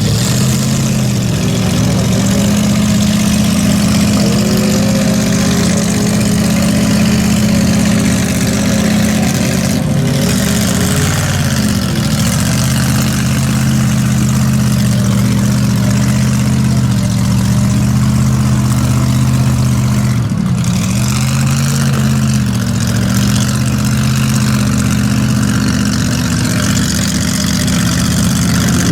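Mud bog truck engine running steadily at high revs, its pitch sagging and recovering briefly three times.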